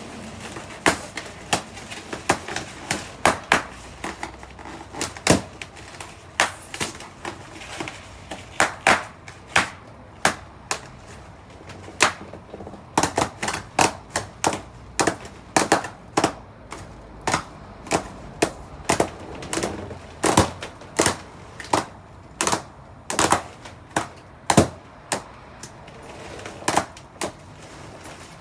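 Balloons popping one after another, sharp loud bangs at an irregular pace of roughly one to two a second.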